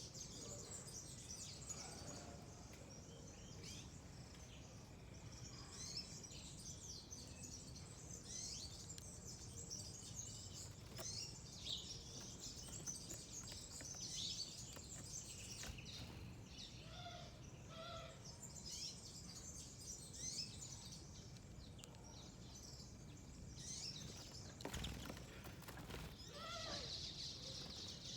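Many small birds chirping and twittering at once: a steady, mixed chorus of short high calls. A few lower paired notes come a little past halfway, and there is a brief burst of noise near the end.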